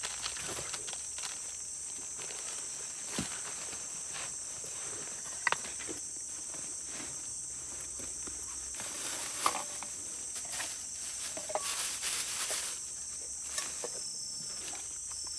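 Steady high-pitched chorus of forest insects, with scattered small knocks and a spell of rustling and handling noises about two-thirds of the way through.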